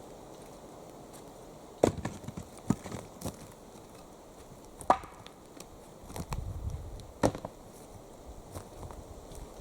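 An axe chopping wood: several sharp strikes at uneven intervals, the loudest about five seconds in.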